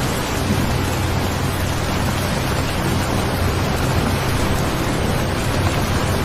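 Steady rain noise, an even hiss with no separate drops standing out, over a low steady hum.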